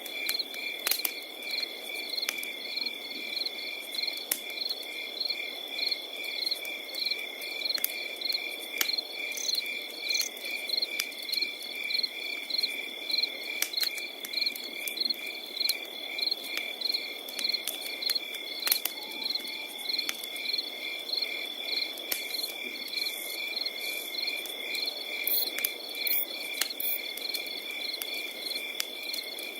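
Crickets singing: one steady, unbroken high trill alongside rhythmic chirping at about two chirps a second. Under them a fire burns with a soft low rustle and scattered sharp crackles and pops.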